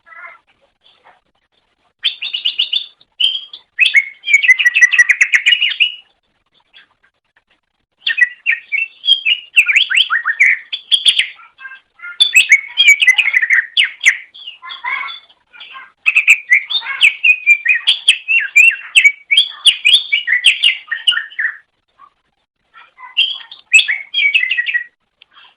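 Green leafbird (cucak ijo) singing: fast, varied runs of chirps and whistled notes delivered in phrases a few seconds long, with short pauses between them.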